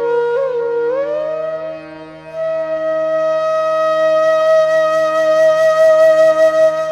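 Background flute music over a steady drone. A short ornamented phrase comes first, then a long held note.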